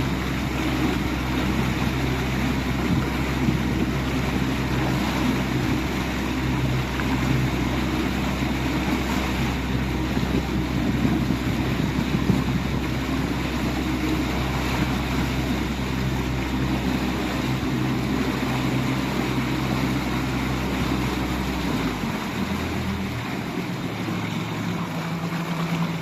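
Outboard motor running steadily, with water and wind noise around it; near the end its note changes as the engine speed shifts.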